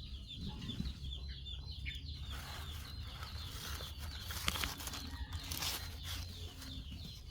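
A steady run of short, high chirps repeating several times a second, over a low hum, with a few brief clicks and rustles about midway.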